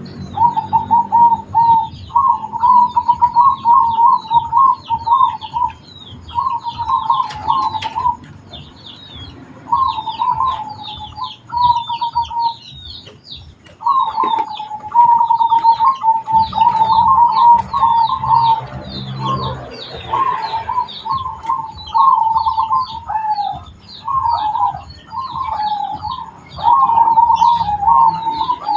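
Zebra doves (perkutut) cooing in repeated trilled, stuttering phrases a few seconds long with brief pauses between, over continuous rapid high-pitched chirping.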